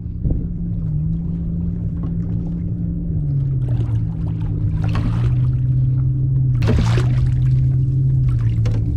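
A boat engine droning steadily across the water, its pitch dropping a step about three seconds in and again a few seconds later, with a few short knocks or splashes near the kayak.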